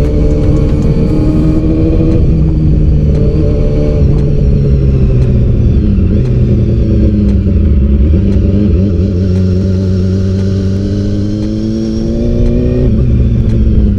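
A vehicle engine running loudly while driving, its pitch sinking, then climbing steadily for several seconds before dropping again near the end, as the vehicle accelerates and changes gear.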